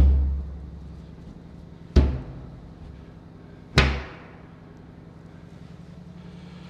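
Three heavy hammer blows on a hollow aluminium fuel tank, about two seconds apart, each a deep thud that rings briefly in the tank.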